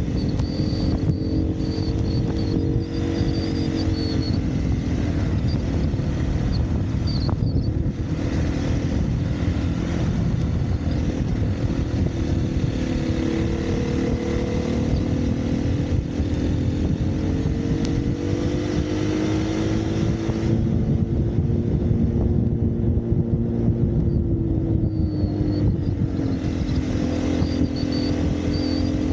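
Single-cylinder dirt bike engine running steadily under way, its pitch rising and falling slowly as the throttle is worked, over a heavy low rumble.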